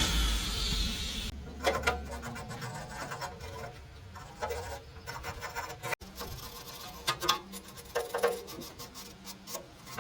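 A running power tool cuts out about a second in, and its low hum winds down over the next second. After that come scattered light scrapes, rubs and clicks of hand work on parts.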